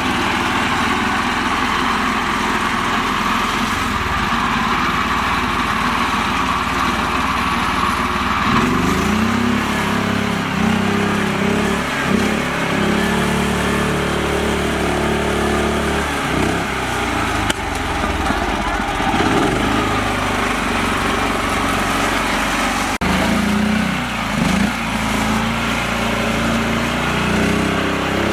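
A small tractor engine running. From about nine seconds in its pitch rises and falls again and again as it is revved.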